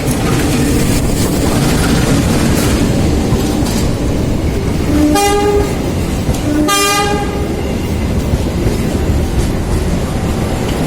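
Train passing over a level crossing: a steady loud rumble and clatter of wheels on rail, with two short horn blasts a little past the middle, about a second apart.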